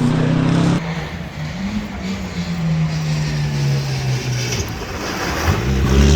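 Rally car engines. A loud engine note stops abruptly under a second in; after it a quieter engine note slides slowly down in pitch, and near the end another engine revs up loudly, its pitch climbing as it accelerates.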